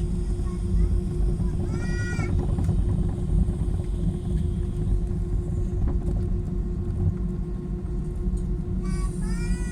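Cabin noise inside an Airbus A319-111 with its CFM56 jet engines running: a steady deep rumble with a constant hum and a thin high whine. Two brief high-pitched rising-and-falling squeaks cut through, about two seconds in and near the end.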